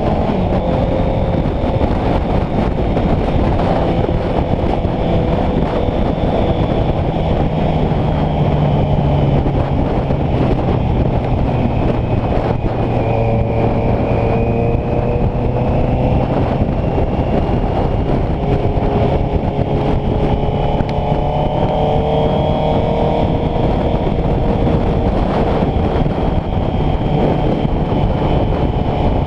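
Honda CBR650F's inline-four engine running under way, its pitch rising and falling gradually with throttle, under a heavy rush of wind on the microphone.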